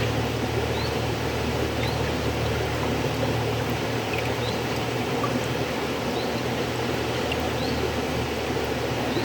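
River water flowing, a steady even rush with a low rumble, with faint short high-pitched blips about once a second.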